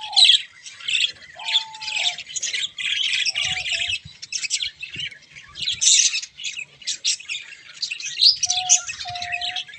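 Budgerigars chirping continuously, many high chirps overlapping, with a few short, steady, lower whistled notes breaking in, one about a second and a half in and two near the end.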